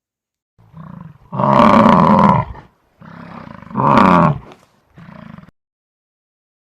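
Bison bellowing: a soft grunt, then two long, loud bellows about two seconds apart, each followed by quieter grunting, the last a short soft grunt.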